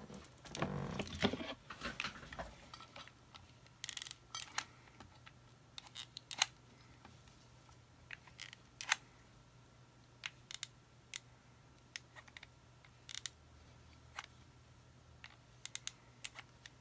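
Craft materials being handled at a worktable: a short rustle at the start, then scattered light clicks and taps, one at a time, every second or so.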